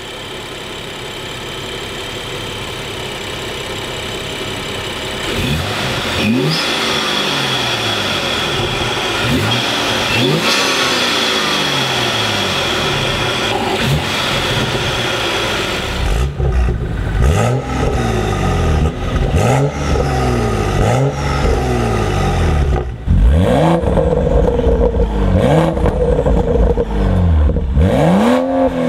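BMW 335i's N55 3.0-litre turbocharged straight-six with an open cone intake, idling and then revved again and again in short blips, heard from the engine bay with its induction whine. About halfway through, the engine is heard from its tailpipes instead, a deeper exhaust note with the downpipe and muffler valves deleted, and is revved several more times.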